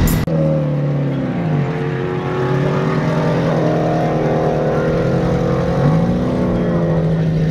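Car engine idling with a steady, even note. The engine speed sags about a second and a half in, holds low, then picks up slightly again near the end.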